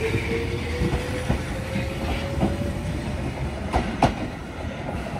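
Kishigawa Line electric train pulling away: its motor whine rises slowly in pitch over a steady rumble as it gathers speed, with the wheels clacking over rail joints.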